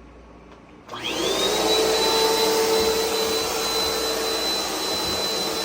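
Vacuum cleaner switched on about a second in: its motor whines up to speed, then runs steadily with a loud rushing of air.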